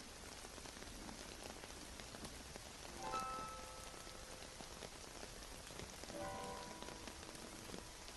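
Steady rain falling, with scattered raindrop ticks. A few faint musical notes sound about three seconds in and again near six seconds.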